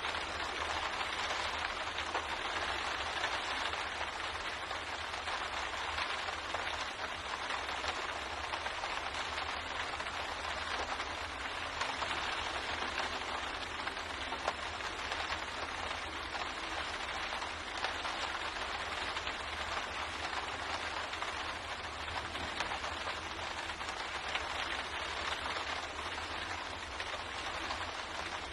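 Steady rain pattering on a window pane, a dense even wash with many small drop ticks, over a faint low rumble.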